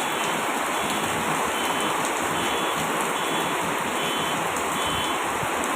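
Heavy rain pouring down in a steady, dense hiss, with faint short high-pitched chirps repeating roughly every three-quarters of a second.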